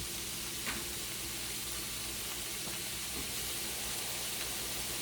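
Ground beef and onions sizzling in a hot pan, a steady even hiss, with a faint click or two.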